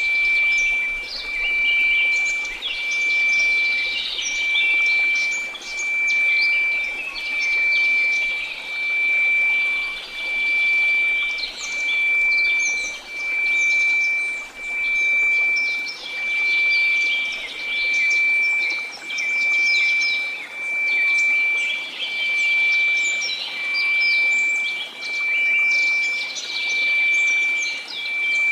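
A steady 2334 Hz sine tone that swells and fades about every second and a half, over a soft hiss of noise, with quick bird chirps scattered throughout.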